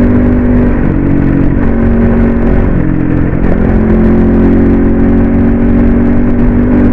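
Crossfire RM250 dirt bike engine running under way, heard from the rider's position. The engine note steps down in pitch about a second in and again near three seconds, then picks back up, over a steady rumble of road and wind noise.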